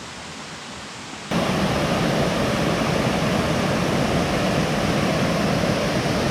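Waterfall water rushing in a steady wash of noise, becoming abruptly much louder about a second in.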